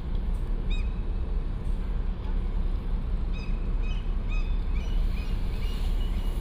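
Short, repeated bird calls, a few at first and then a quick run of them in the middle, over a steady low outdoor rumble.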